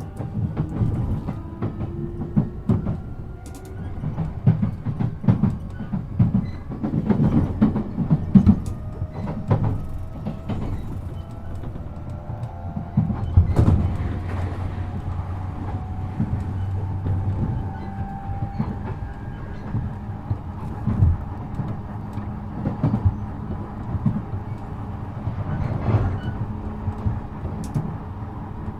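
E233 series 7000-subseries electric train running: its motor whine rises steadily in pitch over the first twelve seconds or so as the train accelerates, then holds a steady tone, with repeated clatter and knocks from the wheels over rail joints.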